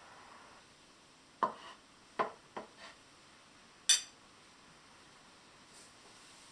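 Dishes and utensils being handled: four light knocks and clinks in quick succession, then one sharper click about four seconds in.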